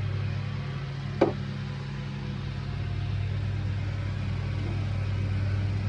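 Steady low machine hum with a single sharp knock about a second in.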